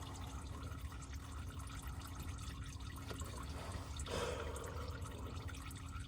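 Warm used engine oil draining from a Chrysler 300S's V8 into a drain bucket, a faint steady trickle and drip. A brief, slightly louder rustle comes about four seconds in.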